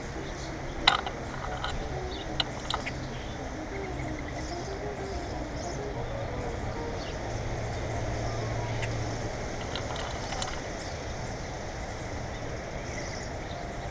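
Small birds at a feeder giving short high chirps, with three sharp clicks in the first three seconds, over a steady low hum that swells briefly in the middle.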